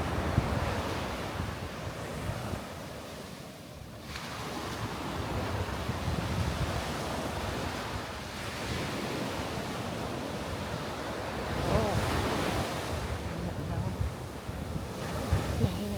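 Sea surf washing onto the beach, swelling and ebbing, with wind buffeting the microphone.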